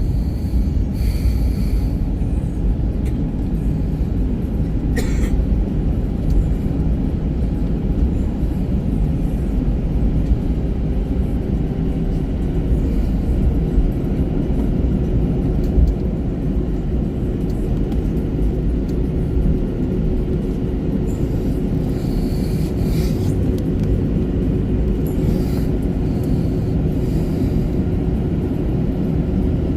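Steady low rumble inside the cabin of an Airbus A321-200 on the ground, its engines running at low power. A steady hum joins about a third of the way in, and there is a brief click about five seconds in.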